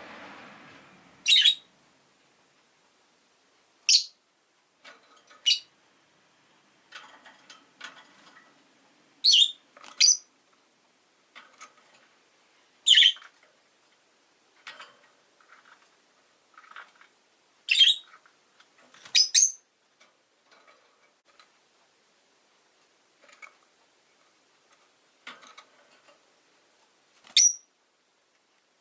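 Rosy-faced lovebirds giving short, sharp, high chirps one at a time, about a dozen loud ones spread out with gaps of a second or more, plus softer calls in between.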